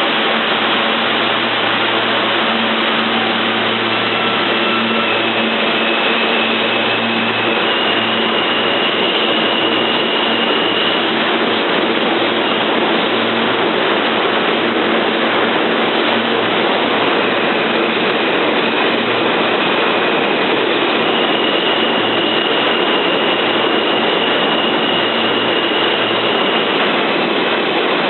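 New York City Subway R160 train pulling out and running, a loud steady rumble of wheels on rail. Thin high whining tones come and go over it, with a low hum underneath.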